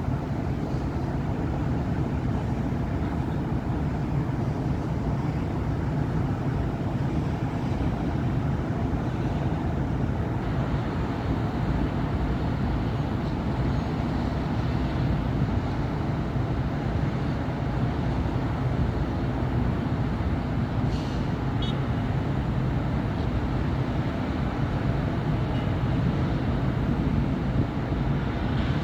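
Steady city street traffic: cars, buses and trucks running past in a continuous low roar. About 21 seconds in, a brief high squeal rises above it.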